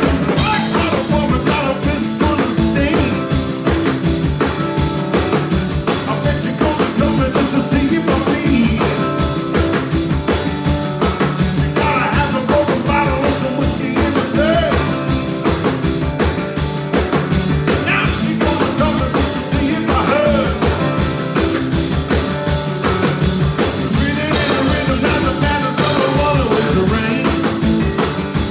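Live blues trio playing, with drums keeping a steady beat under guitar.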